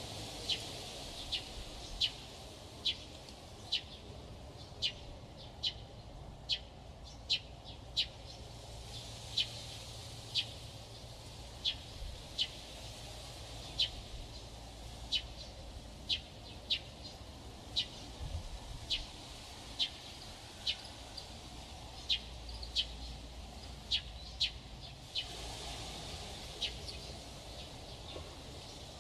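A parrot chirping over and over, short sharp high chirps about one to one and a half a second, over a steady background hiss. A louder hiss comes in near the end.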